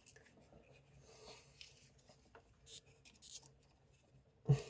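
Test leads and probes being handled and scraped against conductors during an end-to-end continuity test of a ring circuit's earth conductor: faint rubbing and light clicks, two short scratchy scrapes around the middle, and a soft thud near the end.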